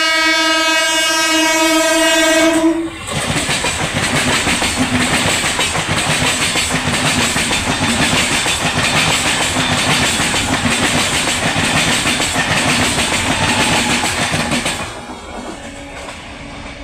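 EMU local train sounding one long horn blast that cuts off about three seconds in, then rushing past at speed with rapid wheel clatter over the rails. The passing noise drops away sharply near the end.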